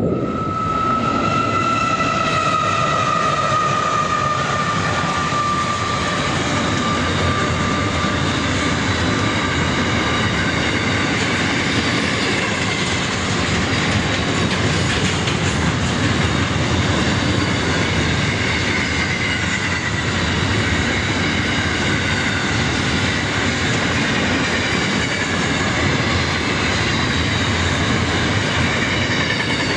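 Container freight wagons rolling past at speed: a steady, loud rumble and clatter of steel wheels on rail, with a high ringing wheel squeal that is strongest in the first few seconds and slowly falls in pitch, then comes and goes.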